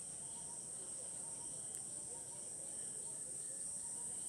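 Faint steady high-pitched chirring of insects, with a softer chirp repeating about every half second.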